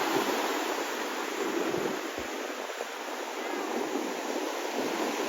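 Steady rushing noise of ocean surf at the beach, with no clear breaks or strikes.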